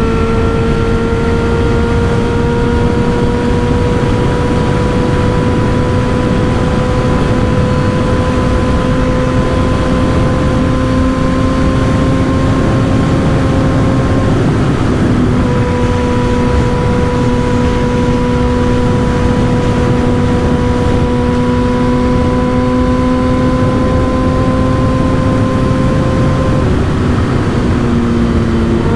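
Motorcycle with an M4 aftermarket exhaust running at cruising speed, its engine note slowly climbing, dropping out briefly about halfway, then holding steady and easing off near the end. Heavy wind noise on the microphone.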